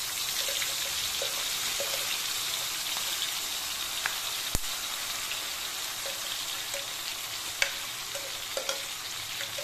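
Blended chili spice paste sizzling in hot oil in a wok, a steady hiss, with a few clicks and knocks of a wooden spatula; the sharpest knock comes about halfway through.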